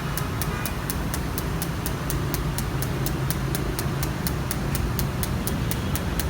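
Electrical machine hum, steady and low, with a sharp ticking repeating evenly about five times a second; it fits a TIG welding machine running under test for a fault in which it produces no heat.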